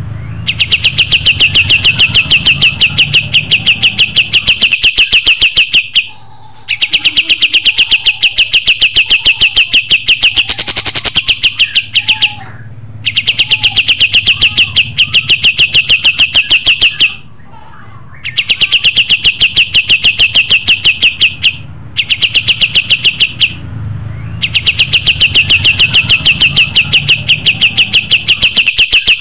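Kapas tembak songbird singing long runs of rapid, evenly repeated high notes, each run lasting several seconds with short breaks between.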